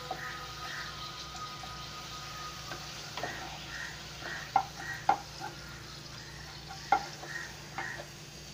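Appalam (papad) frying in hot oil in a kadai: a steady sizzle, with a slotted spatula stirring and a few sharp knocks of the spatula against the pan around the middle.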